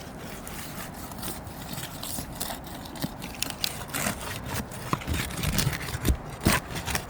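Scraping, rustling and irregular clicks of fiberglass roof shingles being worked loose and lifted, getting busier and louder in the second half.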